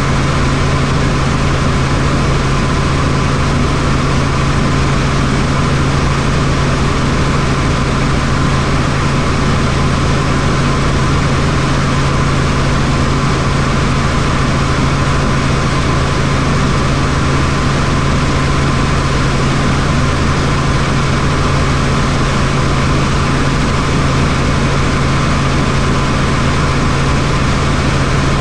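Helicopter in flight, heard from inside: a steady engine and rotor drone with a strong low hum that holds unchanged throughout.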